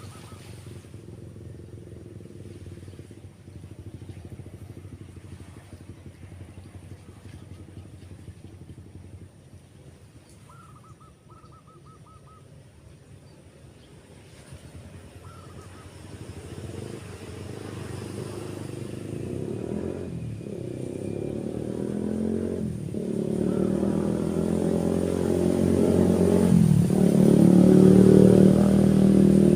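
Motorcycle engine running, drawing steadily louder through the second half as it approaches. A few short bird chirps sound in the first half.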